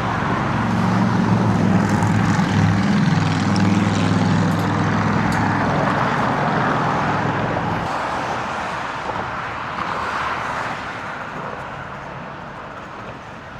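A motor vehicle passing close by: a low engine hum over tyre and road noise, loudest in the first few seconds. The hum drops out about eight seconds in, and the noise fades away toward the end.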